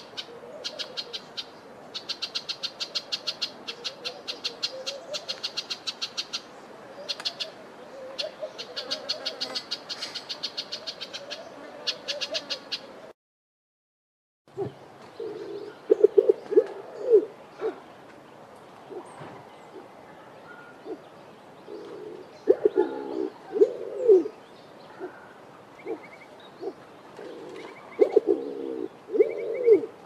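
An amethyst sunbird calling, a fast, high, chattering run of chips repeated many times a second, for about the first thirteen seconds. After a short silent gap, a speckled pigeon cooing: deep coos in three bouts of several notes each.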